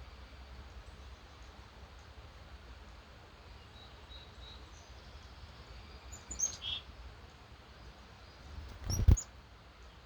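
Wild birds giving short high chirps over a steady low background hiss: a few faint ones about four seconds in, then a louder cluster a little past six seconds. About nine seconds in comes a sudden loud thump, the loudest sound here.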